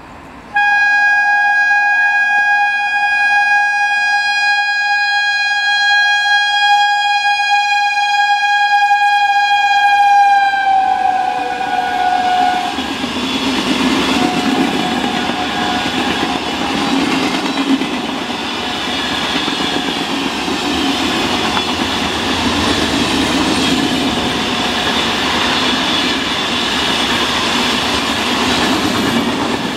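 A Rajdhani Express locomotive sounds one long horn blast of about ten seconds, and its pitch drops as it comes past. Then the coaches rush by at speed, their wheels clattering steadily over the rail joints.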